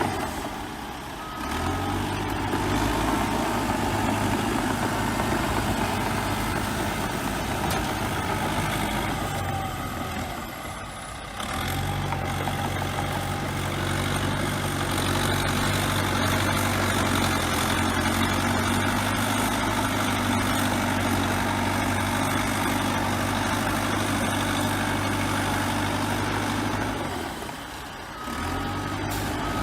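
Bulldozer diesel engine running steadily under work, with a low hum. The sound drops away briefly about a second in, around eleven seconds in and again near the end, and a few short high beeps come near the start and near the end.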